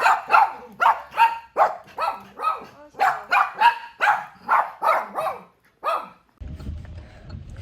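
Small dog barking repeatedly and quickly, about two to three sharp barks a second, stopping about six seconds in. A steady low rumble follows after a cut.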